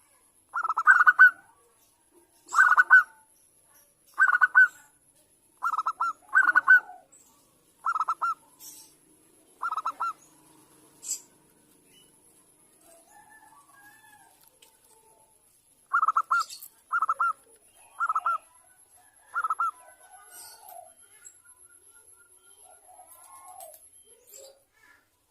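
Zebra dove (perkutut) giving short pulsed coos, one every second or two, in two runs with a pause of several seconds between them. The recording is presented as a female calling to draw a male into answering.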